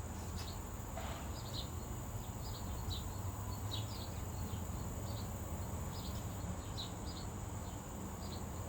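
Small birds chirping in short, irregular peeps, over a steady high-pitched insect drone and a low background hum.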